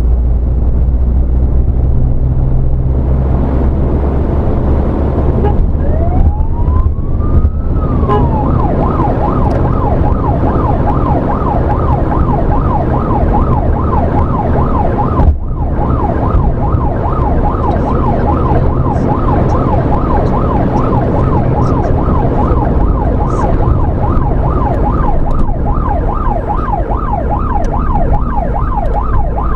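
Emergency vehicle's road and engine noise heard from inside the cabin. About six seconds in, its siren rises and falls once in a wail, then switches to a fast yelp that keeps going.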